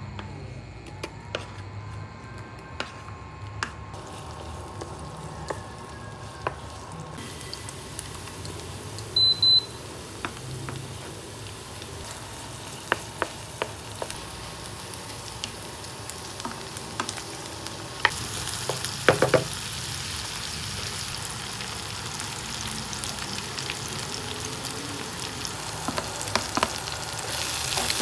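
Food frying in a pan, sizzling and growing louder in the second half, with scattered clicks and clatter of a utensil stirring. A short high electronic beep sounds about a third of the way in.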